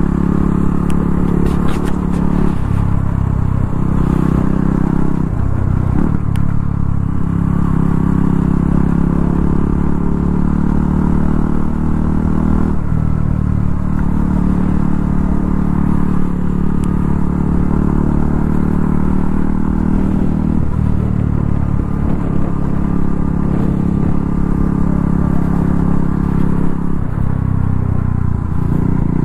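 200 cc single-cylinder motorcycle engine running steadily under way, heard from the rider's seat, its pitch shifting several times. Low wind rumble sits under it.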